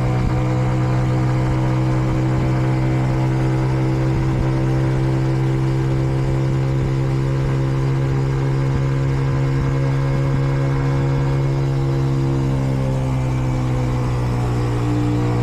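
Kreidler Dice CR 125 motorcycle's single-cylinder 125 cc four-stroke engine running steadily while cruising at moderate revs during its running-in period. The engine note dips slightly after about twelve seconds and rises again near the end.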